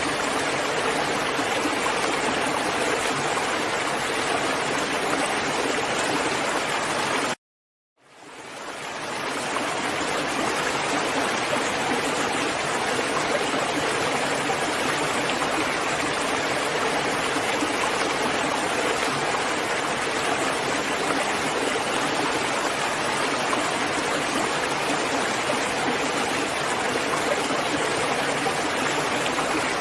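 Steady rain, an even rushing hiss. About seven seconds in it cuts out for half a second, then fades back in over the next two seconds.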